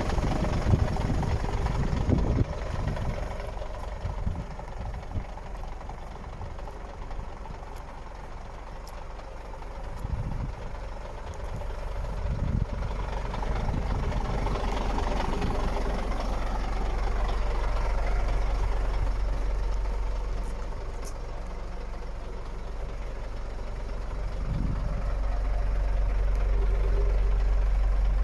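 Scania P94.220 truck's diesel engine idling steadily, with wind buffeting the microphone now and then.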